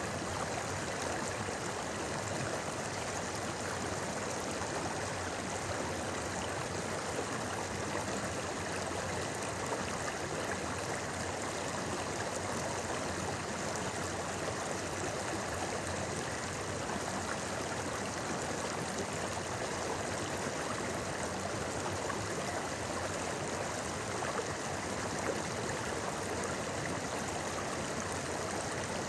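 Shallow river babbling and rushing over stones, a steady, even flow with no change.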